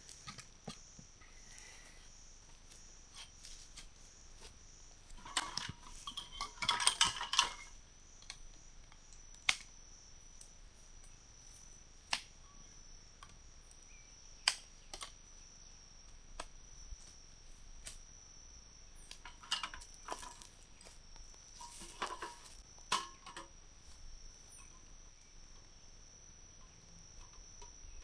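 Crickets chirring steadily in one high, unbroken tone, with scattered sharp clicks and a few short bursts of rustling or handling noise, the longest about six seconds in.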